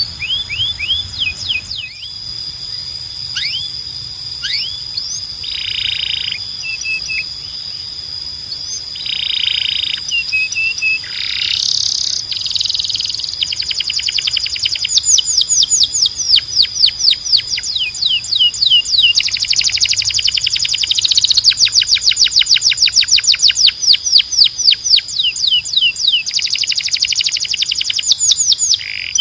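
Domestic canary singing: rapid trills of quick, repeated sweeping notes broken by short buzzy rolls. It grows louder about halfway through.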